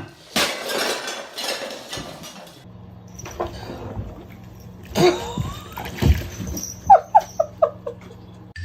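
Animal noises: a rustling burst at the start, then near the end a quick run of five or six short, high, falling yelps.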